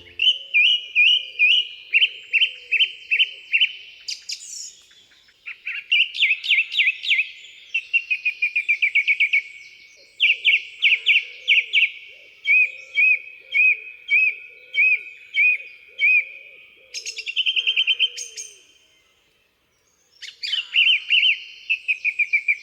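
Song thrush singing: a string of short, clear phrases, each note or figure repeated several times before the bird moves on to a new one, with a brief pause about nineteen seconds in.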